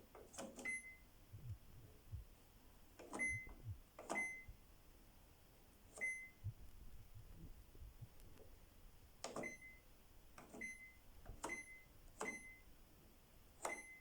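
Control panel of a Samsung built-in oven with microwave beeping as its buttons are pressed: a click and a short high beep with each press, about nine times at uneven intervals.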